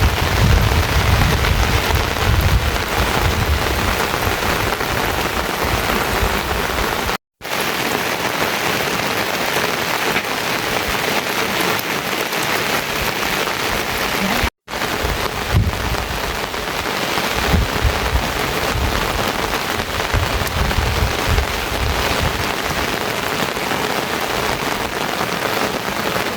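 Steady rain falling, loud and even, with low rumbling in the first few seconds and again in the second half. The sound drops out for an instant twice.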